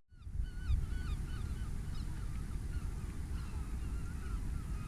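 A flock of birds calling: many short, wavering calls that overlap throughout, over a low steady rumble.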